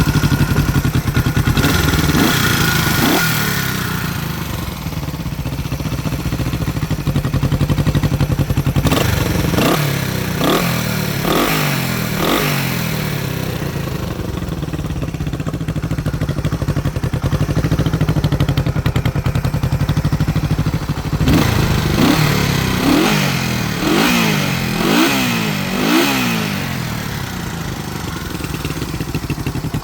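1967 Honda CB450 K1's parallel-twin engine idling through its exhaust and being blipped in short, sharp free revs. There are a couple of blips about two seconds in, a cluster of four around ten seconds in, and a quicker run of five or six near the end.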